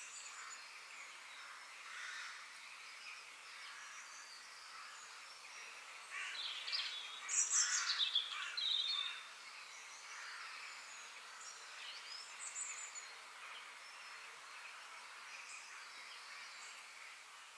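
Forest birds singing and chirping over a steady hiss, with a louder burst of song about six to nine seconds in.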